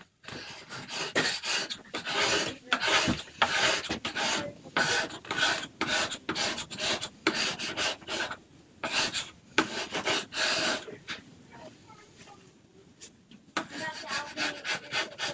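Quick, repeated rubbing and scraping strokes on a board as dried paste is cleaned off it. The strokes come about two or three a second, stop for a couple of seconds near the end, then start again.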